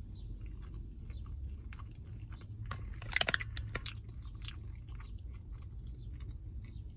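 Close-up chewing of a chicken sandwich with bacon, cheese and jalapeños: small wet mouth clicks and soft crunching, with a short burst of louder crackling about three seconds in, over a low steady hum.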